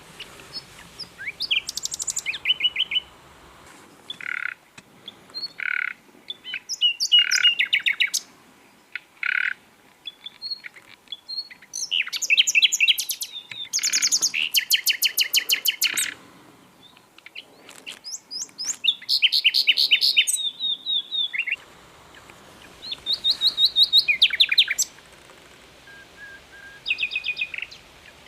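Common nightingale singing: phrase after phrase with short pauses between them, mixing slow pure whistled notes with fast rattling trills of repeated high notes.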